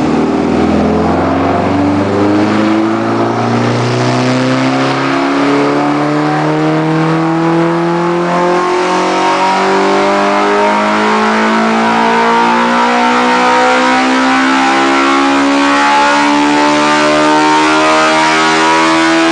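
Hartley Enterprises 75-degree V8, made from two Suzuki Hayabusa motorcycle top-ends, under full throttle on a dyno pull. It revs smoothly and steadily higher in pitch for the whole stretch, heading toward its 10,500 rpm limit.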